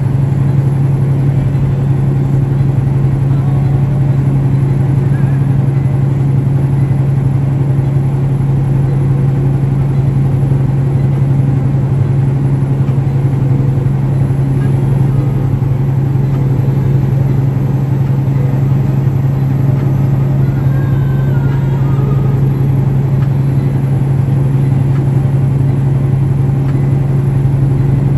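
Semi truck's diesel engine running steadily under a heavy load while climbing a hill, heard from inside the cab as a constant low drone that holds one pitch throughout.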